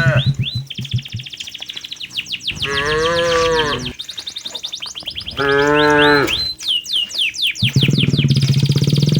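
Cattle mooing: three long moos, one about three seconds in, one about six seconds in, and a lower one starting near the end.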